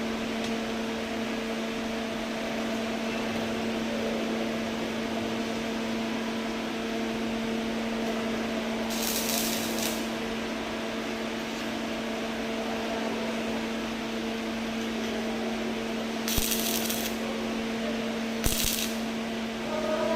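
A steady machine hum at a fixed pitch, with three short hissing bursts: one near the middle and two close together near the end.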